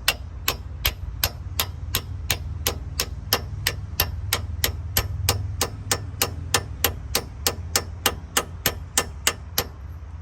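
Hammer tapping on metal in a fast, even rhythm, about four or five light, sharp strikes a second, driving a part in to seat it flush. The taps stop just before the end, over a steady low hum.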